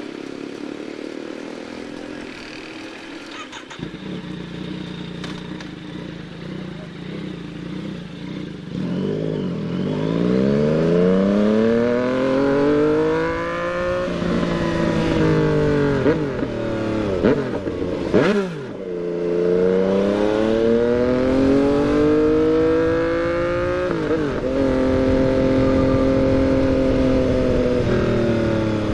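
Yamaha MT-09's three-cylinder engine pulling hard up through the gears: the revs climb, then drop sharply at each upshift, three times, before settling into a steady cruise near the end.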